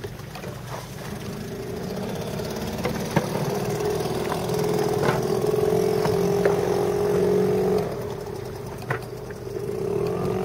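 A boat's engine running steadily. It picks up about two seconds in, eases off around eight seconds, then picks up again, with a few short knocks along the way.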